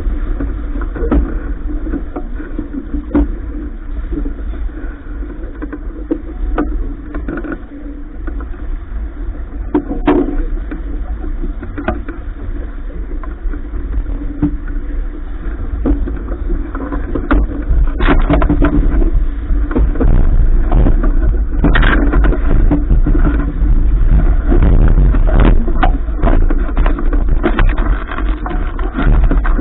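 Noise aboard a sailing yacht under way: a continuous low rumble with irregular knocks and splashes, growing louder about two-thirds of the way through.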